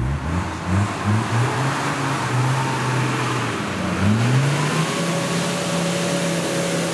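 Modified Suzuki Jimny's engine revving in a string of short blips, then held at steady revs with a brief dip and rise about four seconds in, as the 4x4 crawls through mud.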